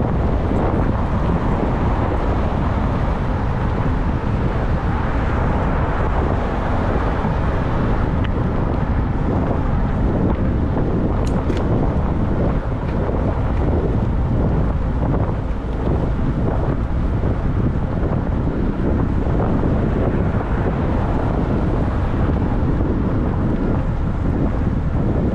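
Steady wind rush on the microphone of a camera riding along on a moving e-bike.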